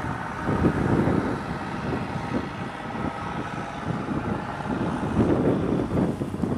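Blizzard wind buffeting the microphone: an uneven low rushing noise that swells and fades irregularly.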